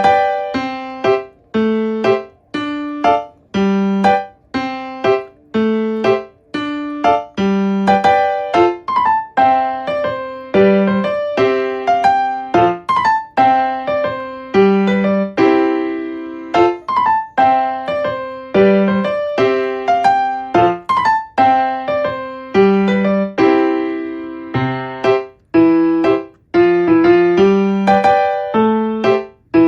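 Background piano music: a gentle melody of single notes and chords, each struck and fading, at an even, unhurried pace.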